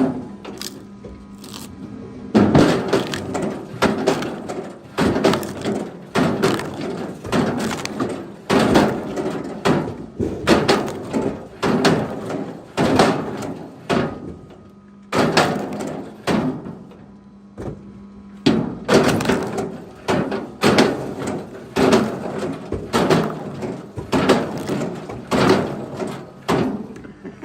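Chunks of wood knocking and clattering, one or two impacts a second, in runs broken by a few short pauses, over a faint steady low hum.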